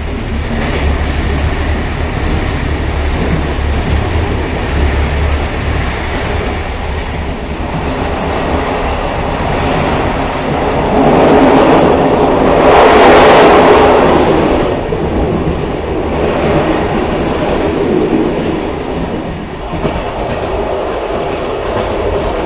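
Railcar running along the track: a steady rumble of wheels on rails, growing louder and brighter for a few seconds about halfway through before settling back.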